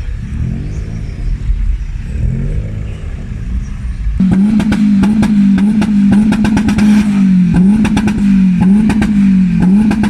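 A boosted car engine is revved a few times, then from about four seconds in it is held at high revs and gets louder. The revs dip briefly every second or so, and sharp crackling pops from the exhaust run through it.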